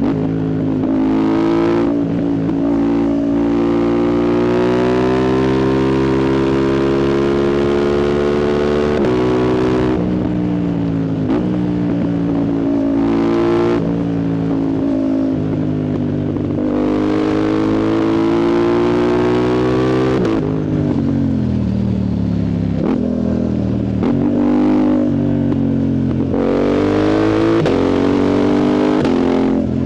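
Yamaha MT-07's 689 cc CP2 parallel-twin engine through a loud full exhaust with the dB killer removed, pulling hard through the gears. Its pitch climbs in long steady rises, drops sharply at each gear change, falls away as the bike slows about two-thirds through, then rises again near the end.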